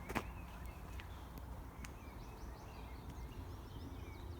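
Faint songbird twittering in short series of high chirps over a low steady rumble, with a few light clicks.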